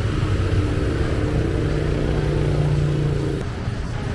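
Street traffic with a nearby motor vehicle's engine giving a steady hum, which stops about three and a half seconds in.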